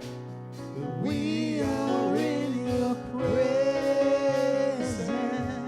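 Gospel worship music: steady held instrumental chords, with a single voice singing over them from about a second in and holding one long note near the middle.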